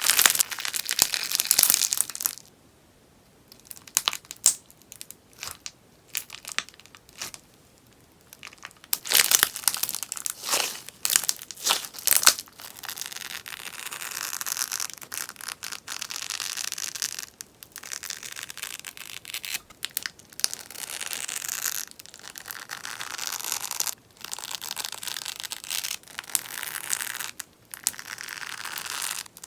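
Sponge slime being squeezed and worked close to the microphone, popping and crackling. Loud crackling bursts come at the start and again from about 9 seconds in, with a quieter spell between. From about 12 seconds in there is a steadier, denser crackle in repeated strokes separated by short pauses.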